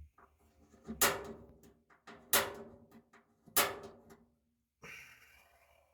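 Three sharp knocks on sheet metal, evenly spaced about a second and a quarter apart, each ringing briefly, then a softer scrape near the end: a tool working the rusty truck cab metal.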